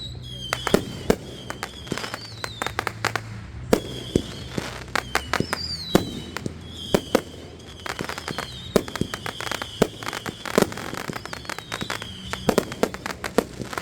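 Consumer fireworks going off in quick succession: many sharp bangs and crackles, with high whistles that fall in pitch again and again.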